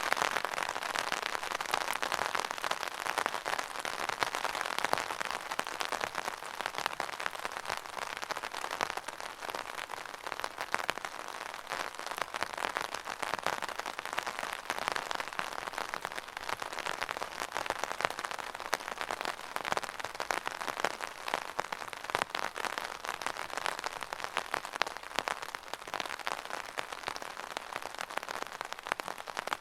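Steady rain falling, a dense patter of drops on a hard surface with no letting up.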